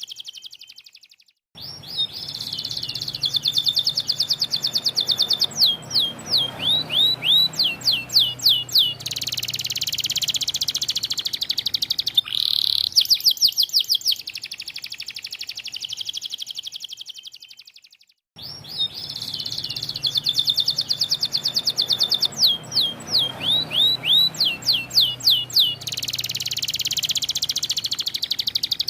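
White canary singing long, loud song bouts of rapid rolling trills, strings of quick upward-sweeping notes and buzzy rattles. Each bout follows a brief pause, and the second, about halfway through, repeats the same sequence.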